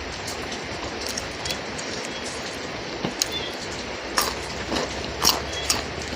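Steady hiss of rain falling, with scattered light clicks and taps of a spoon against a dish.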